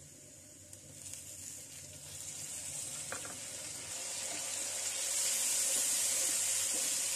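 Potatoes, onions and garlic frying in hot oil in a metal pot, sizzling as chopped tomatoes and green chillies go in and are stirred with a wooden spatula. The sizzle starts faint and builds to its loudest in the second half.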